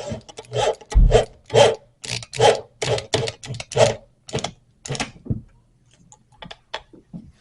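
Self-drilling drywall anchor being screwed into drywall: a run of short gritty grinding strokes, about two to three a second, as the anchor's threads cut into the gypsum. The strokes stop about five seconds in, and a few faint ticks follow.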